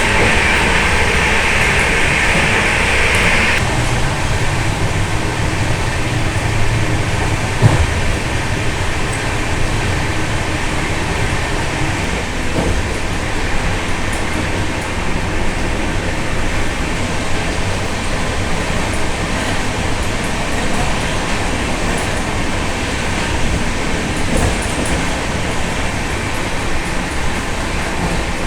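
A train running, heard from inside a sleeper coach: a steady rumble and rail noise, with a high hiss over it for the first three or four seconds and a single sharp knock about eight seconds in.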